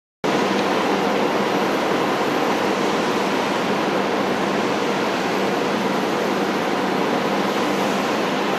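Cessna 208B Caravan's single PT6A turboprop engine and propeller running with a steady rushing noise and a faint hum underneath, unchanging throughout.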